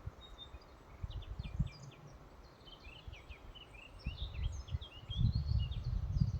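Several small songbirds chirping and trilling in a forest, quick high notes overlapping throughout. Gusts of wind rumble on the microphone, the strongest from about four seconds in.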